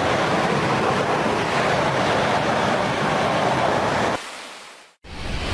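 Heavy water rushing through a dam. It is a loud, steady noise that drops off suddenly about four seconds in and fades to silence. Just before the end a fresh rush starts with a deeper rumble.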